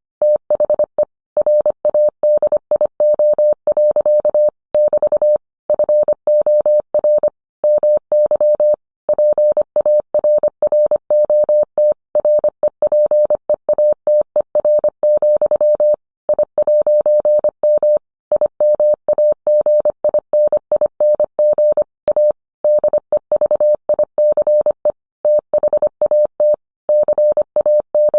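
Morse code sent as a single steady mid-pitched tone, keyed on and off in short and long elements (dots and dashes). Brief gaps fall between characters and longer pauses between words, at a steady sending speed.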